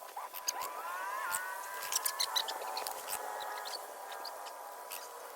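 Goat bleating: one long call that rises at first and then holds steady for a few seconds before fading, with scattered sharp clicks around it.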